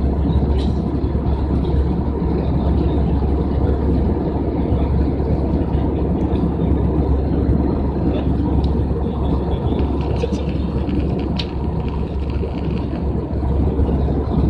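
Steady low rumble of an airliner cabin in flight: engine and airflow noise. A few faint clicks sound over it.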